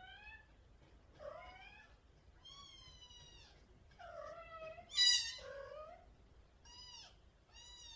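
Mother cat calling her kitten with a string of short meows, about eight, each sliding up or down in pitch; the loudest and highest call comes about five seconds in.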